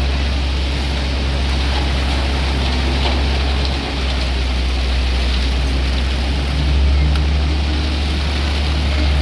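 Heavy diesel engine running steadily, a low continuous drone that swells slightly about seven seconds in.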